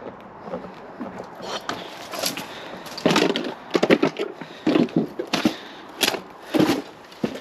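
Wood and debris crunching and knocking in an irregular run, roughly one knock every half second to a second, the kind of sound made by stepping over strewn rubbish.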